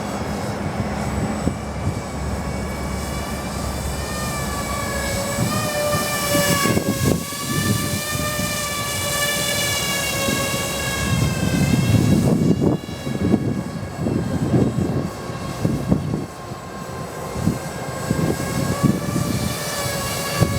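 Electric motors and rotors of a Walkera Avatar twin-rotor RC aircraft whining in flight, the pitch wavering up and down as the throttle changes. Strong wind rumbles and buffets against the microphone, in gusts.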